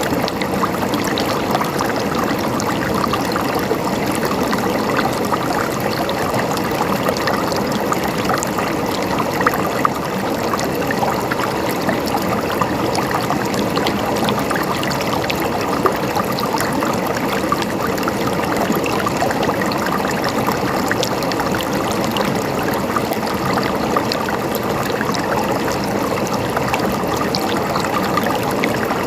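River water flowing and babbling over stones, steady throughout.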